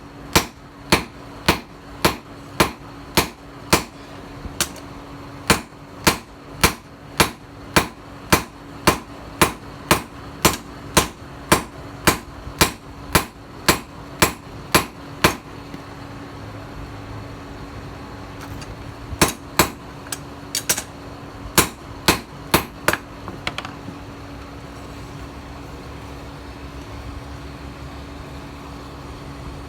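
Hand hammer striking a steel blade on an anvil during forging, ringing blows about two a second for roughly fifteen seconds, then a short pause and a few more blows before it stops. A steady hum runs underneath, and a low, even rumble continues after the hammering ends.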